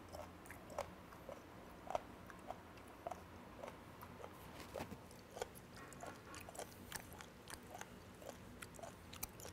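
A person chewing a piece of fermented skate (hongeo) nose: faint, irregular mouth clicks and small crunches about twice a second as the slightly crunchy cartilage is worked.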